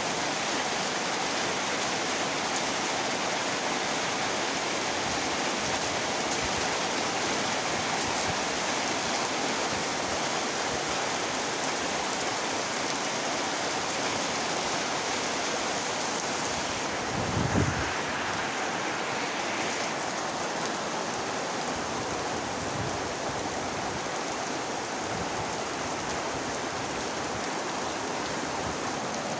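Rainy-season downpour falling as a steady hiss. A brief low thump sounds about halfway through.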